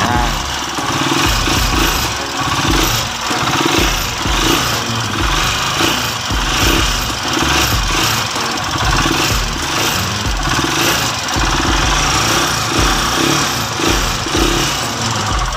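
Tricycle's four-stroke motorcycle engine running just after a cold start, warming up so the oil circulates. Its sound swells and eases every second or so.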